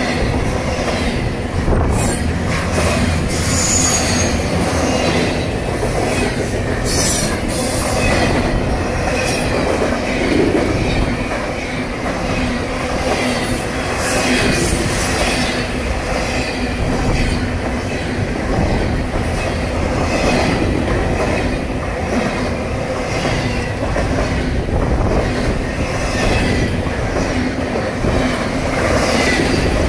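Double-stack intermodal freight train of container well cars passing close by: steady rolling noise of steel wheels on rail, with brief high wheel squeals now and then.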